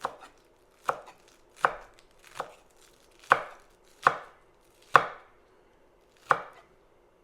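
Kitchen knife slicing scallions on a cutting board: separate, unhurried chops, one about every second, about eight in all, stopping about six seconds in.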